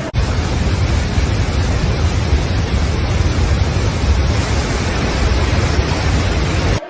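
Loud, steady rushing noise with a heavy low rumble, cutting in and out abruptly.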